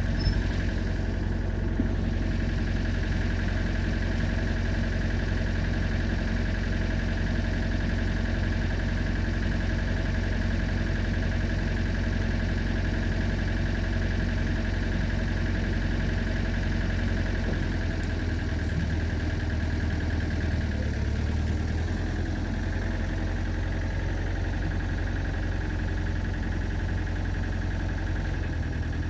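Excavator diesel engine idling steadily.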